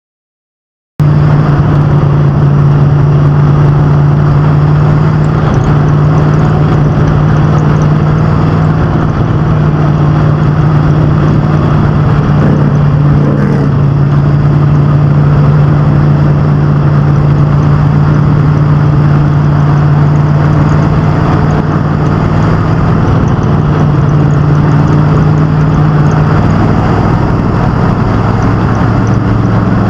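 Street stock and pro truck race engines running loudly at a nearly steady pitch, the pitch dipping lower near the end.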